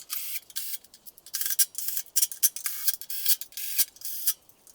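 A threaded metal part being screwed back into a pellet stove: short, irregular rasping strokes, about three or four a second, as the threads are turned.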